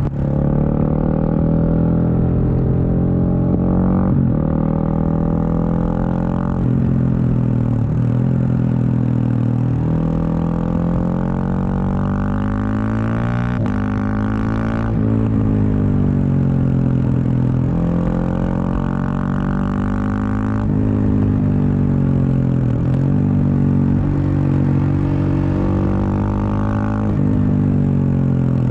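Husqvarna 701 Supermoto's single-cylinder engine through a Wings aftermarket exhaust, pulling through the gears: the note climbs and drops sharply at each upshift, several times over. Around the middle, and again near the end, the revs fall away as the bike slows.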